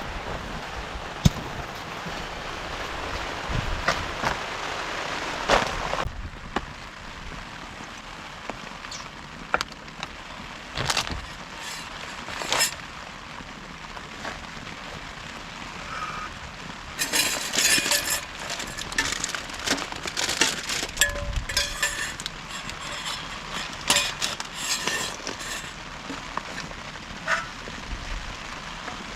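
Rain falling, a dense steady hiss for about six seconds, then an abrupt drop to lighter rain with scattered taps and bursts of crackling.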